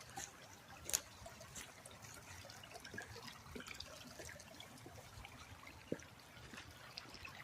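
Faint water trickling and splashing over rocks, with many small scattered drips and splashes and a couple of sharper ticks.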